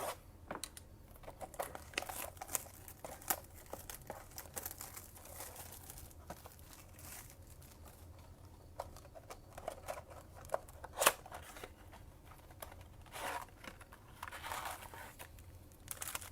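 A trading-card blaster box being torn open and its foil card packs handled: irregular crinkling and tearing of plastic wrap and cardboard. There is a sharper click about eleven seconds in.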